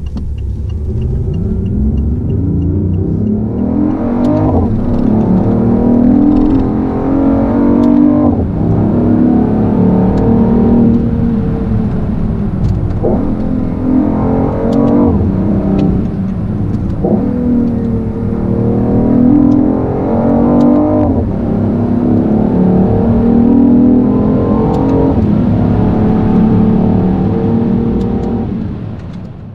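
BMW i8's turbocharged three-cylinder petrol engine heard from inside the cabin under hard acceleration. The engine note climbs, then drops sharply at each upshift, about seven times.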